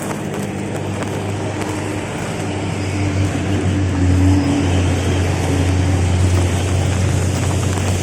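Motor vehicle engine running steadily under a constant rushing noise, growing a little louder about halfway through.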